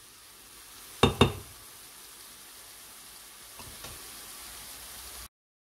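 Chopped onions and pepper sizzling as they sauté in oil in a stainless steel pan, a steady faint hiss. About a second in there are two sharp knocks against the pan, with a couple of softer ones a few seconds later; the sound stops abruptly near the end.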